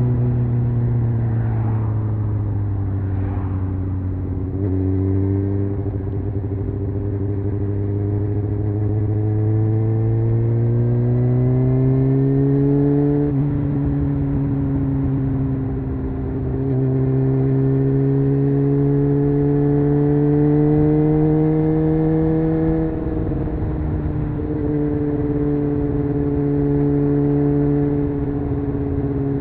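Honda CBR600F's inline-four engine and exhaust heard from the rider's seat while riding: the engine note falls over the first few seconds, then climbs steadily under acceleration, with changes in pitch at about thirteen and twenty-three seconds as the revs shift, and holds steady between.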